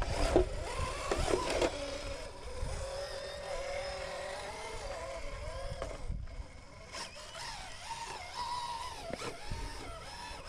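RC rock crawler truck's electric motor and geared drivetrain whining as it crawls, the pitch rising and falling with the throttle. There are a few knocks in the first couple of seconds as the truck's tyres and chassis hit the rocks.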